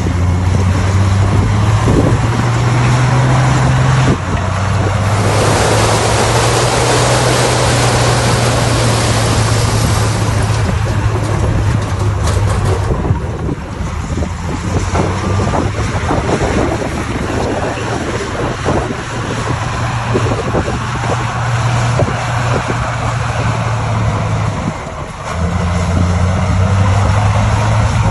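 Crawler bulldozer's diesel engine running under load with a steady deep note that shifts in pitch as it works, over scattered clanks and knocks as it pushes stone. A louder rushing noise comes in about five seconds in and lasts some seven seconds, and the engine eases briefly near the end before picking up again.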